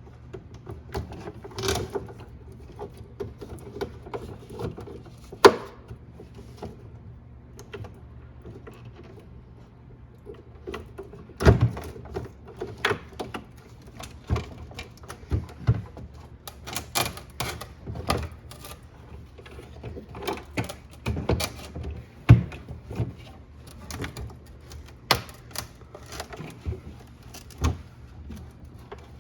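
Irregular clicks, taps and knocks of parts and tools being handled during refrigerator ice-dispenser repair work, over a faint steady low hum.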